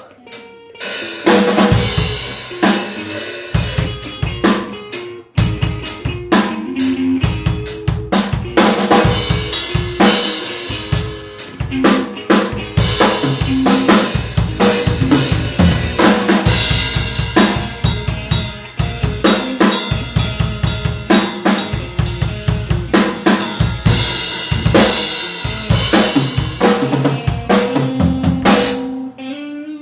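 Improvised fusion-blues jam by a guitar and drum duo: busy drum kit playing with dense, rapid hits under moving guitar lines.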